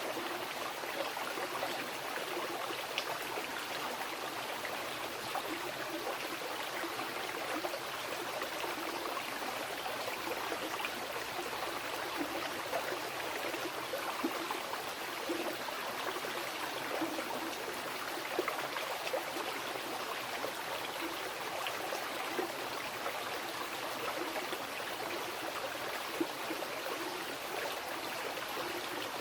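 Mountain river rushing over rocks: a steady, unbroken wash of flowing water with small splashes and gurgles throughout.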